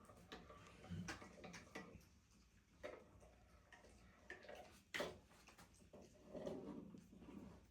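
Near silence with scattered faint clicks and taps at uneven spacing, the sharpest about five seconds in.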